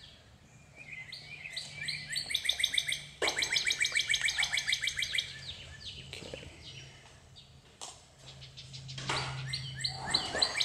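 A bird singing fast trills of evenly repeated high chirps, about ten notes a second, in two bouts, the second starting near the end. A faint steady low hum runs underneath.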